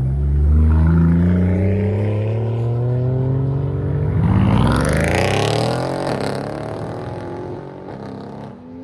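Car engine revving hard under acceleration. Its pitch climbs steadily for about four seconds, sweeps up sharply with a hiss just past the middle, then drops and fades.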